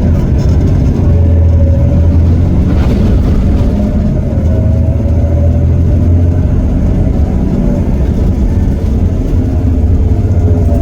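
Heuliez GX327 city bus's Iveco Cursor 8 six-cylinder diesel pulling under load through its ZF Ecomat automatic gearbox, with a steady loud low rumble and a drivetrain whine rising and falling in pitch. The hard pull is a kickdown acceleration.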